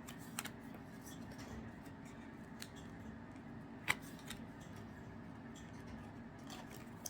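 Trading cards being handled and flipped through: a few faint, light clicks and snaps, the sharpest a little under four seconds in, over a low steady hum.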